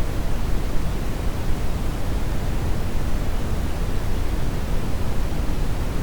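Steady brown noise: an even, deep hiss with most of its weight in the low end, unbroken by any other sound.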